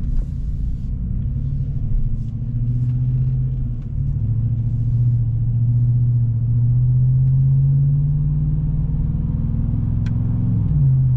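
Chevrolet Silverado pickup's engine and exhaust droning under acceleration, the pitch climbing slowly, then dropping sharply near the end as the transmission shifts up.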